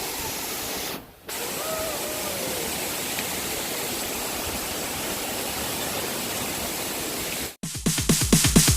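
Steady, even rush of a tall waterfall, Tunan waterfall on the Talawaan river, with a brief dropout about a second in. Near the end the rush cuts off and electronic dance music with a fast beat starts.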